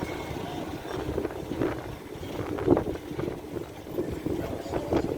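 Vintage aircraft's rotary engine running unevenly, its sound swelling and dropping, with wind buffeting the microphone.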